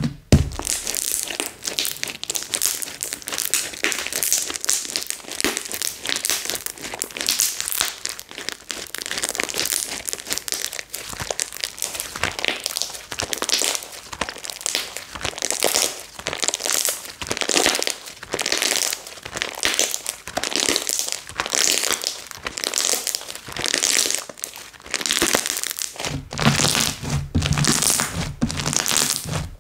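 Slime being squeezed and stretched by hand, giving a steady crackling and popping with louder squishes about once a second. A low hum comes in near the end.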